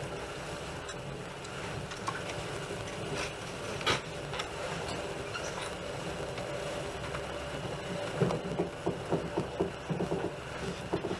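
Passenger train running, heard from inside the carriage: a steady rumble and hum. A sharp knock comes about four seconds in, and a run of irregular clattering knocks comes in the last three seconds.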